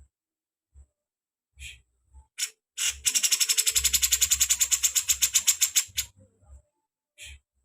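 Songbird call: a few short sharp chirps, then a fast rattling trill of about a dozen notes a second that lasts about three seconds and stops abruptly.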